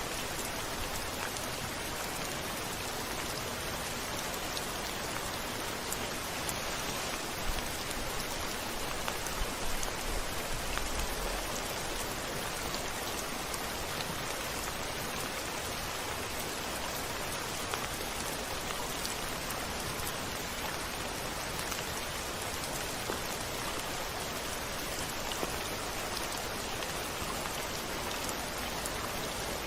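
Steady rain falling, an even hiss of many drops, with a brief low rumble about ten seconds in.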